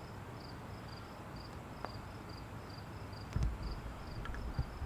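Insect chirping in a steady train of short high-pitched pulses, about four a second. A few dull low thumps come in about three and a half seconds in and again near the end.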